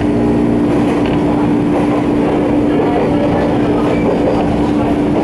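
Jōmō Electric Railway 700 series electric train heard from inside the car while running: a steady rumble of the running gear on the track with one held humming tone over it.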